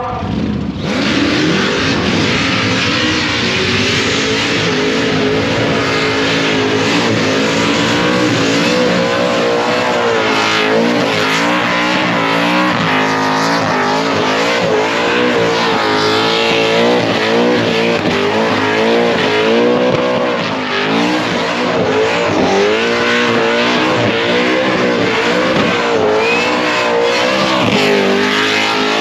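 Supercharged V8 burnout car held at high revs, the engine note wavering up and down over and over as the driver works the throttle, with the noise of spinning tyres underneath.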